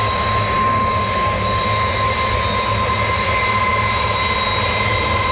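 Jet airliner engines running steadily: a constant high whine over a broad rushing noise, with no rise or fall.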